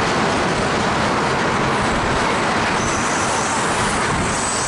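Freight train's boxcars rolling past: a steady rolling noise of steel wheels on the rails, with faint high squealing tones coming in over the last second or two.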